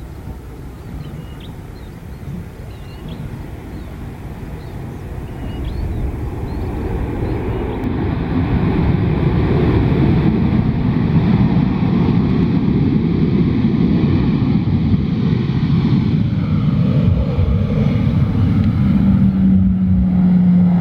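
Airliner engines grow from a distant rumble to a loud, steady rush with a faint whine on top, as the plane passes close by on the runway. Birds chirp briefly in the first few seconds.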